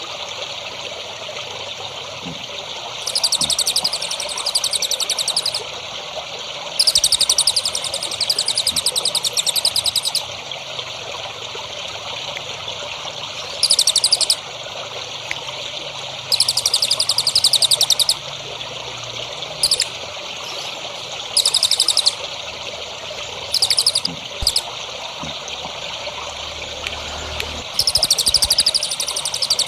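A songbird singing in phrases of rapid, high trilled notes, each lasting from under a second to about three seconds and repeated about nine times, over a steady trickle of running water.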